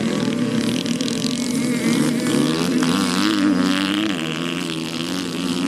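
Moped motocross bikes' small engines racing on a dirt track, several at once, their pitch rising and falling as the riders work the throttle through the corners.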